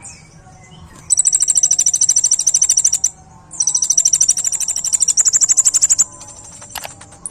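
Kolibri ninja, a sunbird, singing two long, very rapid high-pitched trills of about two seconds each, with a short break between them, followed by a few fainter chirps.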